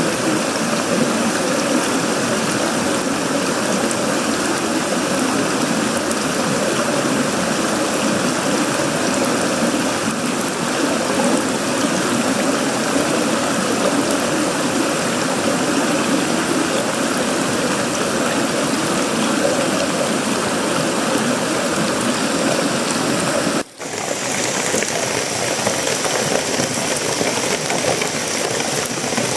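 Heavy tropical rain falling steadily on sheet-metal roofing, wood and leaves, a dense even patter with no let-up. About three quarters of the way through, the sound drops out for an instant and then resumes.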